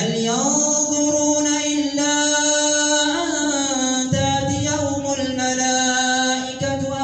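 A male imam chanting Quran recitation in a melodic tajweed style, holding long drawn-out notes that glide slowly in pitch.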